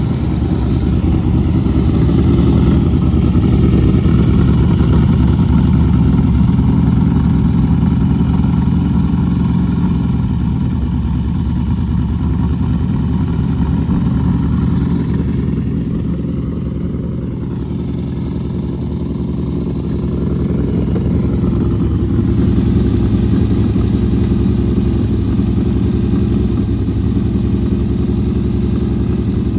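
Motor vehicle engine running at a steady pace, easing off a little about halfway through and then picking back up.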